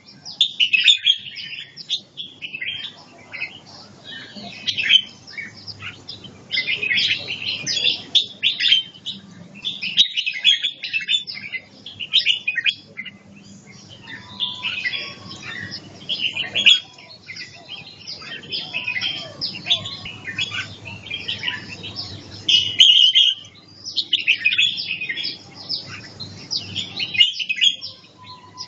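Red-whiskered bulbul singing in the Chong Chi song style: quick, chirpy warbled phrases in bursts of a second or two, with short pauses between them.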